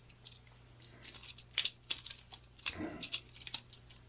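Boker Plus balisong trainer being flipped: irregular sharp clicks and clacks, several a second, as the handles swing around and strike the blade.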